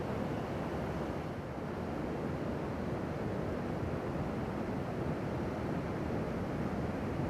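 Ocean surf breaking, heard as a steady low rush of noise, mixed with wind buffeting the microphone.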